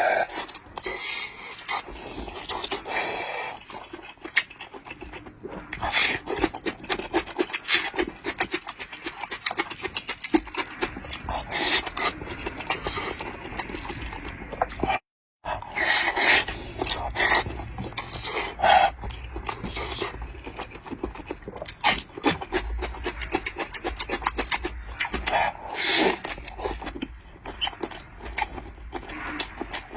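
Close-up eating sounds of steamed claypot rice: irregular chewing and lip smacks, with quick panting breaths over the hot food. The sound cuts out for a moment about halfway.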